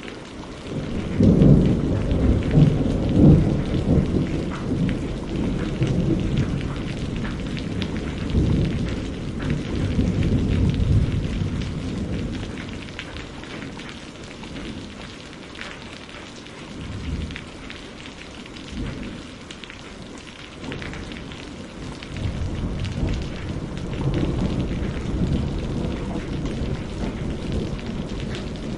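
Steady rain falling on a greenhouse roof, with rolling thunder: a long low rumble starts about a second in and dies away by the middle, and a softer rumble comes near the end.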